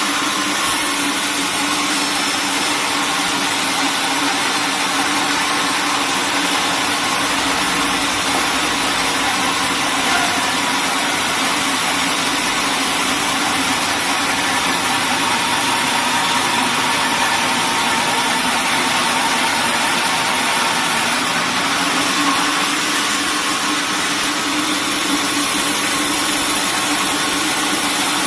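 Sawmill machinery running steadily: a loud, even mechanical noise with a low hum, unbroken throughout.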